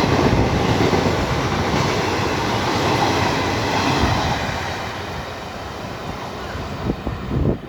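Passenger coaches of a fast express train rushing past on the rails: a loud, steady rush of wheel and wind noise that fades from about halfway through as the train draws away. A couple of short thumps come near the end.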